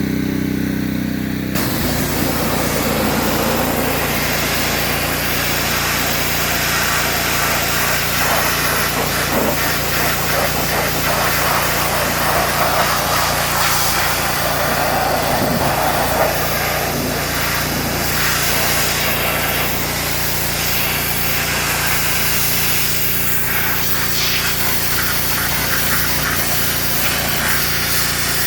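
Pressure washer running steadily, and from about a second and a half in its 15-degree nozzle sprays a continuous hissing jet of water against the truck's body, blasting off rust and old paint.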